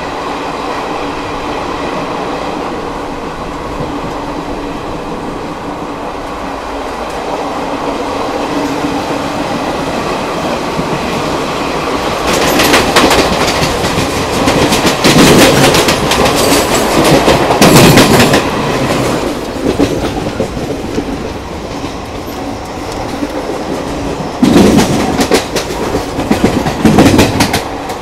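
Passenger train running on the track: a steady rumble, then a loud, rapid clatter of wheels over the rails for several seconds about halfway through, and another shorter burst of clatter near the end.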